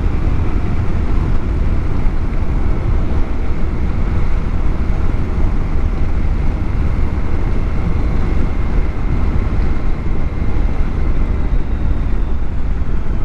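Motorcycle riding at speed, heard from a helmet-mounted camera: steady, loud wind rush over the microphone, with the bike's parallel-twin engine running underneath.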